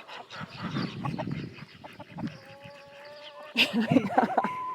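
A flock of chickens and ducks calling: scattered short clucks and chirps, then a drawn-out call about halfway through, and louder squawks near the end.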